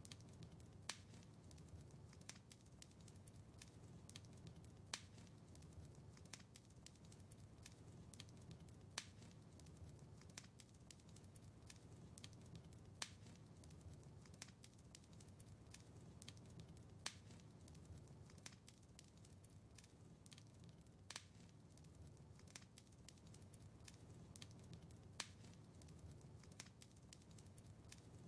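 Wood fire in a fireplace crackling softly over a low, steady rumble of flame, with a louder sharp pop about every four seconds.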